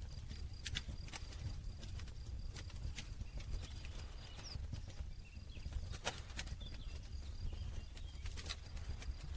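Campfire burning, with irregular sharp crackles and pops of the burning wood over a steady low rumble of the flames.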